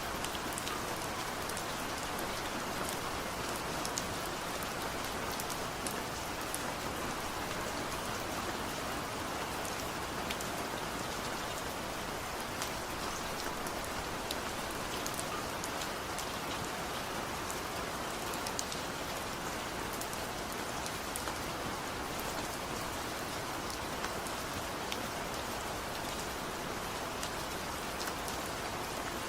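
Steady, gentle rain falling on a surface, an even hiss with scattered light drop ticks, no thunder.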